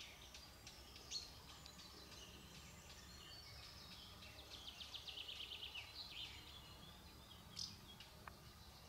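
Small birds singing in rapid chattering trills, with a few sharp single chirps, over a faint steady background hiss.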